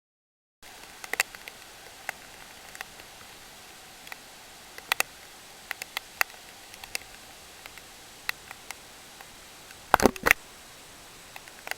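Scattered sharp taps and clicks over a steady hiss, starting abruptly after a brief dead silence, with a quick cluster of louder knocks about ten seconds in.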